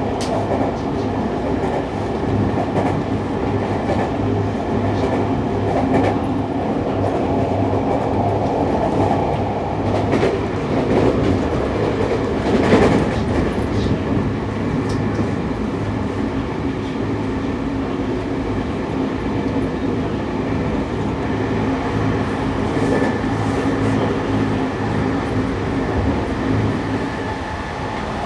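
Seibu 6000 series electric train heard from inside a motor car running at speed: steady wheel-on-rail rumble with a constant hum from the traction motors and gears, and a clickety-clack over the rails. About halfway through a brief louder rush of noise stands out.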